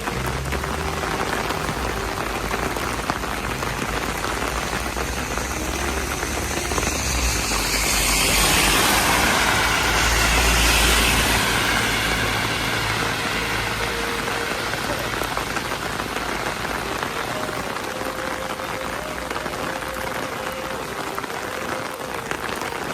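Steady rain falling, growing louder for a few seconds around the middle before easing back.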